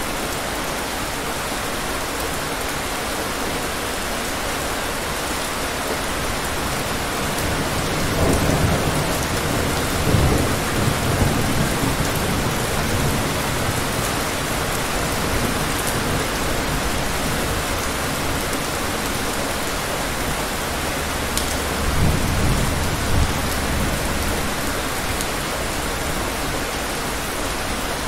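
Heavy rain pouring steadily onto palm trees. Low rumbles of thunder swell up about eight seconds in, lasting several seconds, and again more briefly about two-thirds of the way through.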